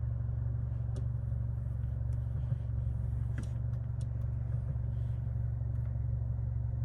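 Mercedes-AMG C63 idling steadily while parked, heard from inside the cabin as a constant low hum, with a few faint clicks.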